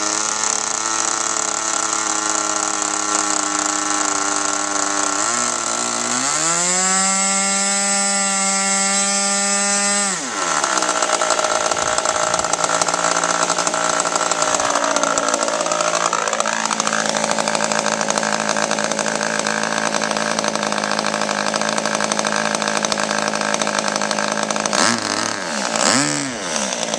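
RC model airplane engine running with its propeller turning: a steady idle, revved up about six seconds in and held high for about four seconds, then back to a steady lower run with a few small surges near the end.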